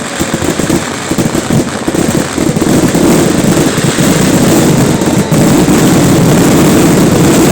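Fireworks finale: a rapid barrage of explosions, fast enough to blur into one continuous roar that grows louder about three seconds in.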